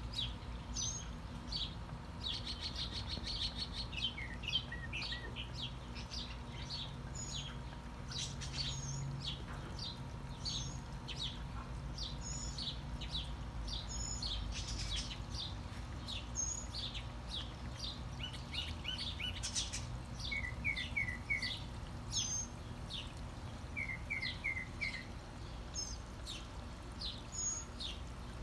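Small songbirds chirping: scattered short, high chirps throughout, with a fast run of notes a few seconds in and two quick four-note trills in the second half.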